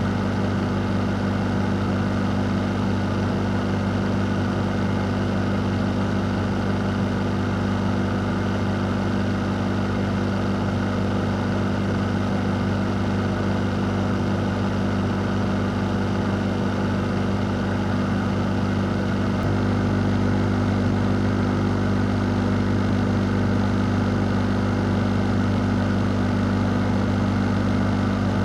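Electric fan running continuously: a steady low motor hum under an even rush of moving air. About two-thirds of the way through it steps up slightly in level and stays there.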